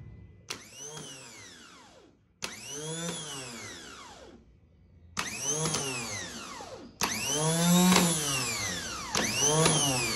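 An electric motor run in five short bursts, each one speeding up and then winding back down, with a sharp click at the start of some bursts.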